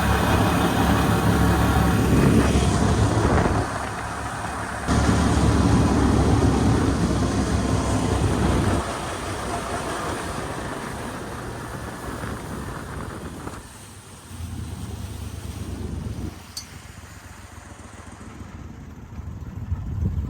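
A motor vehicle engine running, heard in several short cut-together clips: a loud low hum in the first half, quieter later, with abrupt changes at each cut.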